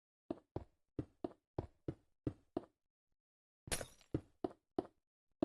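A series of sharp knocks, about three a second, with a pause of about a second midway before the knocking resumes.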